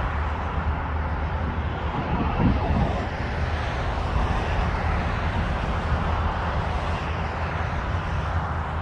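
Jet engines of an Airbus A320neo running, a steady roar over a low rumble that swells briefly about two and a half seconds in.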